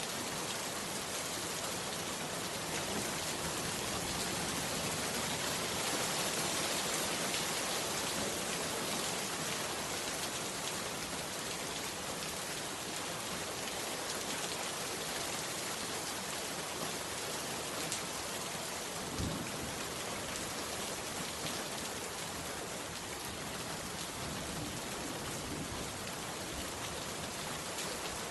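Heavy rain falling steadily, an even hiss of many drops, with one dull low thump about two-thirds of the way through.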